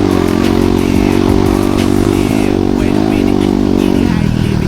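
Enduro dirt bike engine running hard at steady high revs, easing off about four seconds in.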